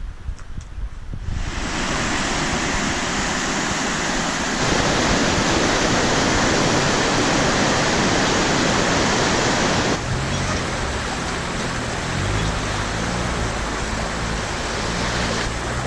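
Steady rush of fast-flowing water, a river or waterfall in spate, running as a dense even hiss. It changes level abruptly a few times, as between separate shots.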